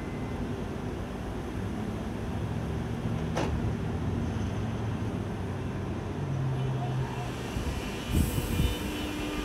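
Low, steady rumble of a train moving through a station, with one sharp click about three and a half seconds in.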